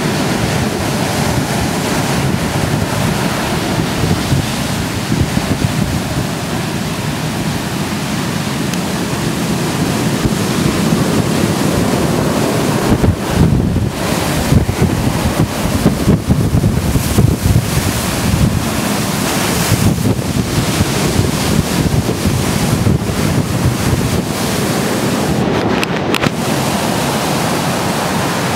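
Hurricane storm surf surging and washing under a house on pilings, with wind buffeting the microphone. The water rises in loud, irregular surges, heaviest about halfway through.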